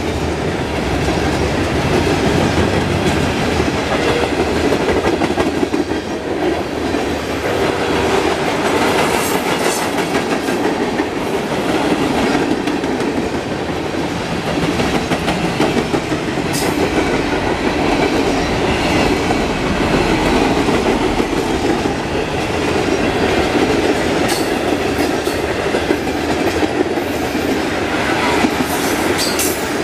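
Freight cars of a freight train, including tank cars, covered hoppers and box cars, rolling past at speed: a steady, loud rumble of steel wheels on the rails. A few short, sharp high-pitched sounds come about a third of the way in, in the middle and near the end.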